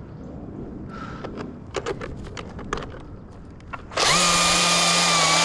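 A few clicks and knocks, then a power saw's motor starts abruptly about four seconds in and runs loud at a steady pitch.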